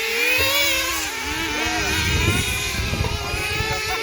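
Several small glow-fuel engines of radio-control race cars running together, their high-pitched notes rising and falling as the cars accelerate and brake around the track.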